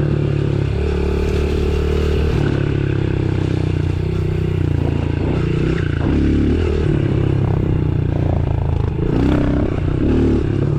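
Honda CRF110F pit bike's small single-cylinder four-stroke engine running while ridden, its pitch stepping up and down several times as the throttle opens and closes.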